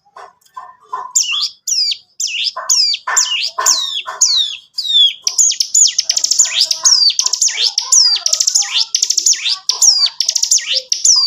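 Ciblek gunung singing hard. After a few soft low chips it gives sharp, high notes that sweep downward, about two a second. About five seconds in these speed up into a dense, rattling run of notes (the 'ngebren' song).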